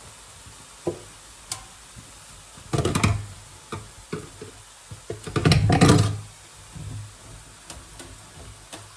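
Kitchen items being handled: a few light knocks, and two short bursts of clattering about three and six seconds in, the second the louder.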